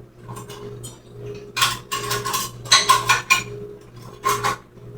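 Metal cutlery clattering and clinking in several short bursts as a spoon is fetched, over a low steady hum.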